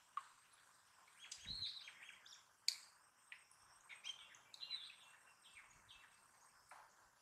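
Faint birds chirping in the background, in short scattered calls, with a sharp click near the middle and a soft low thump about one and a half seconds in.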